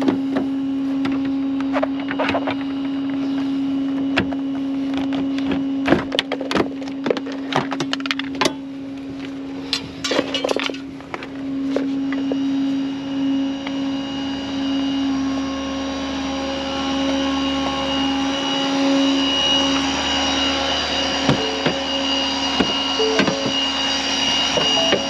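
Steady hum of an idling vehicle engine, with a run of sharp clicks and knocks between about two and eleven seconds in, from hands and tools working at a locked car.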